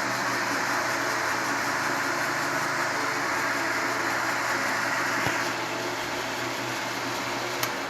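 Small metal lathe with a drill-mill head running steadily under its electric motor: a continuous hum with a hiss. There are two small clicks, one past the middle and one near the end.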